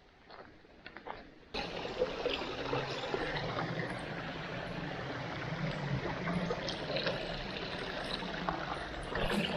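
Small stream running, a steady trickling rush of water that starts abruptly about a second and a half in, after a quiet stretch with a few faint clicks.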